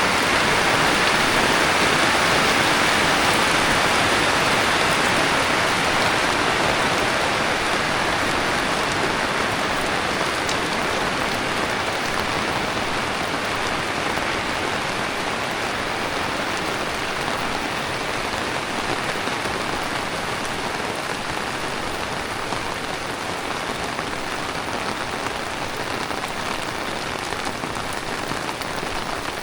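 Heavy tropical rain pouring steadily onto surfaces, a dense even hiss that grows a little softer after the first several seconds.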